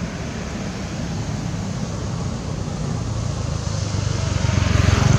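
A motor vehicle's engine running steadily, getting louder toward the end as it draws near.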